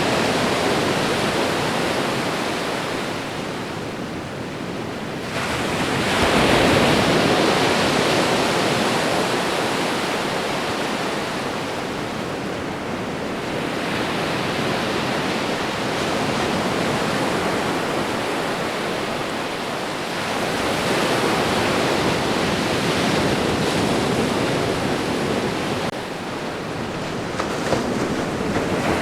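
Ocean waves breaking and washing on a shore: a continuous surf hiss that swells and ebbs every several seconds.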